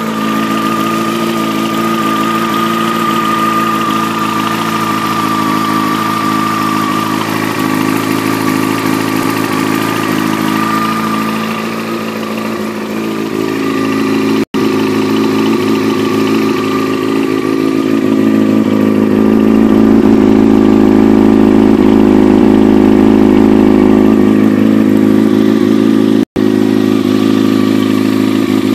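Yamaha YZF-R6 inline-four engine idling steadily after a cold start, heard through an aftermarket carbon-fibre slip-on muffler. The sound grows louder and deeper about halfway through, and cuts out for an instant twice.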